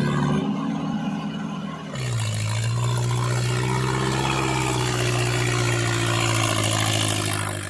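Homemade mini tractor running with a steady engine-like hum. About two seconds in the sound changes abruptly and settles on a slightly lower pitch.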